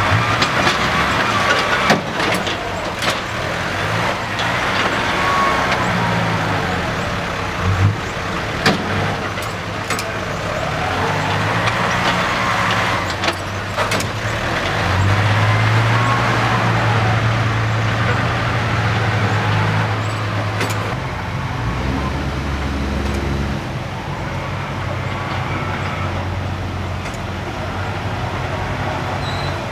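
Six-wheel dump truck's diesel engine running loudly, its pitch rising and falling as it revs, with several sharp knocks along the way.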